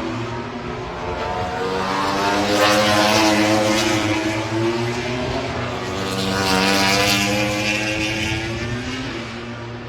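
MotoGP racing motorcycles at speed on track, the engine note swelling twice, about three and seven seconds in, as the bikes go by.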